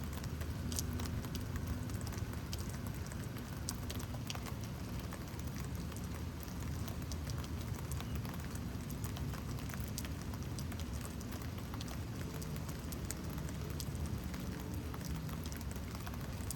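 Steady rain falling, with many sharp ticks of single drops striking close by scattered throughout.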